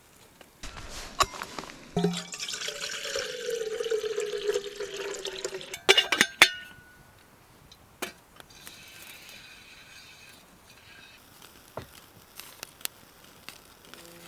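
Water pouring into a container for about four seconds, its pitch slowly falling, followed by a few sharp clinks.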